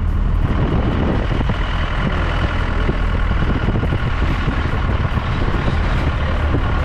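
A motor vehicle's engine and road noise heard from on board while it drives along, a steady low hum with rattling and jolting throughout.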